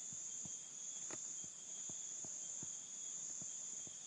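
Steady high-pitched insect trill, crickets by their sound, with faint scattered clicks.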